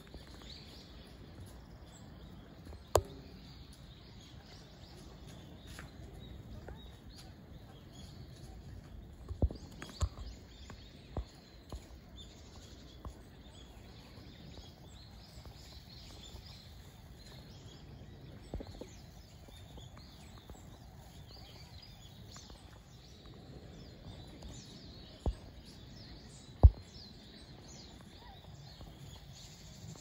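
Faint outdoor ambience with scattered high bird chirps, broken by several sharp knocks, the loudest near the end.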